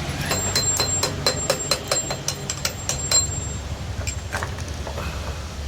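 Hand tool working on a Bajaj Pulsar 150 engine's cylinder head: a quick run of light metallic clicks with a ringing tone, about four a second, stopping about three seconds in, then a couple of scattered knocks.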